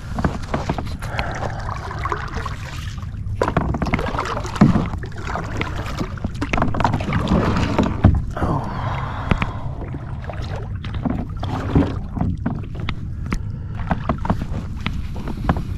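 Paddling a Pelican Catch Classic 100 kayak: paddle strokes in the water with scattered knocks and clicks against the kayak.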